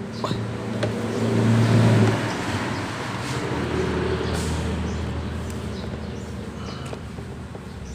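A motor's steady hum with pitched overtones, swelling about one to two seconds in and then easing off.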